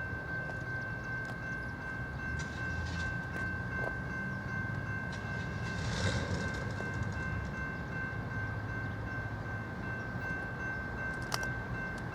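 Canadian National diesel freight locomotives rumbling steadily, with a steady high-pitched tone held over it and a few light clicks.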